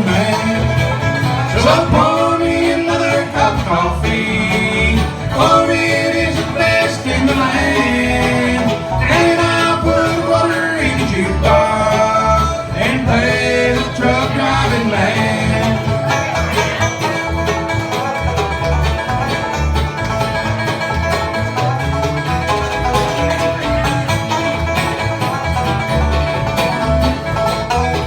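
Live bluegrass band playing an instrumental break of a country song, with banjo and guitar over a steady bass beat.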